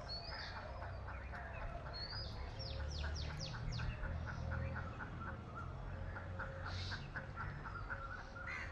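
Birds calling around a pond: a steady run of short repeated notes, and a quick series of about five falling whistled notes about three seconds in, over a low steady rumble.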